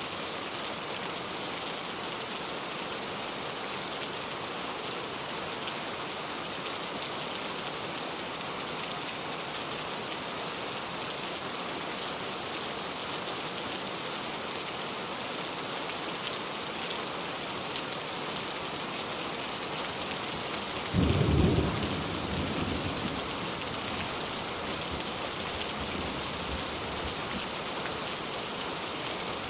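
Heavy rain pouring steadily. About two-thirds of the way through, a sudden clap of thunder, the loudest sound, rumbles on and fades over the next few seconds.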